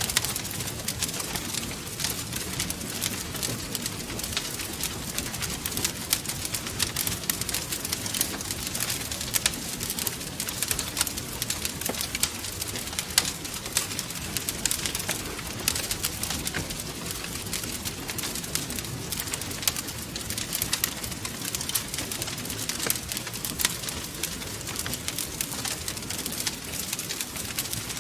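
Wood fire crackling steadily: many sharp pops and snaps over a low, even rumble of flames.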